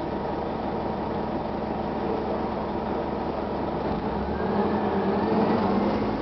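Detroit Diesel Series 50 engine of a 1999 Gillig Phantom transit bus running steadily, then getting louder with a rising whine from about four and a half seconds in.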